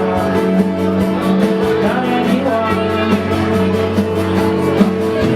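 A rock band playing a guitar-led song with a steady beat.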